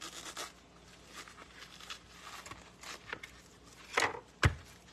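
Leaves being peeled off a partly frozen head of cabbage: soft scattered tearing and crackling. Near the end comes a sharp crunch, then a single loud knock.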